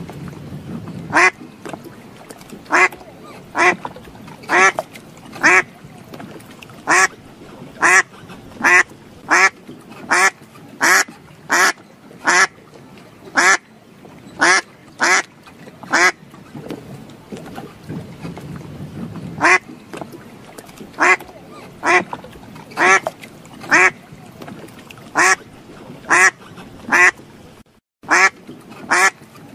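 A bird calling: short calls repeated about one every two-thirds of a second, with a pause of a few seconds in the middle and a brief cut near the end.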